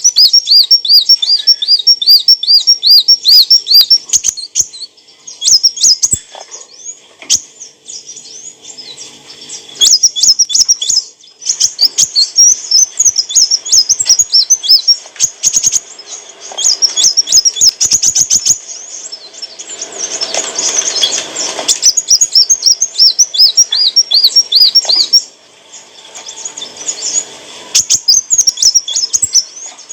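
Kolibri wulung sunbird singing: fast runs of high, looping chirps repeated many times a second, in bursts broken by short pauses.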